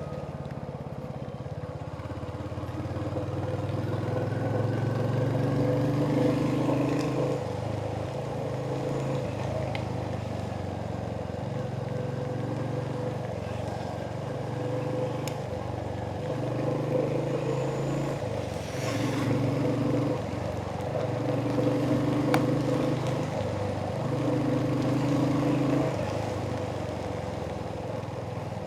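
Royal Enfield Hunter 350's single-cylinder engine running on the move, its exhaust note swelling and easing every few seconds as the throttle is opened and closed.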